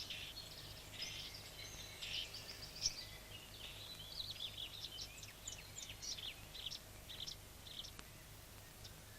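Faint birdsong: a run of many quick chirps and short falling whistles, busiest in the middle, over a low steady hum.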